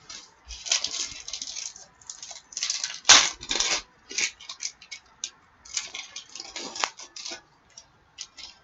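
Trading cards and a foil card-pack wrapper being handled: irregular crinkling, rustling and light ticks, loudest about three seconds in.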